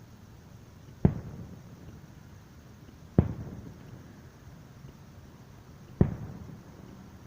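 Aerial firework shells bursting as three booms: one about a second in, one a little past three seconds and one near six seconds. Each boom is a sharp crack that trails off in a rumbling echo over about a second.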